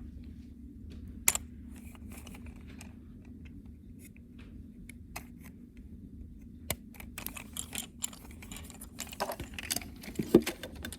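Scattered clicks and clatters of plastic toy trucks being handled, over a low steady hum. There is one sharp click about a second in, and the clicking grows busier near the end.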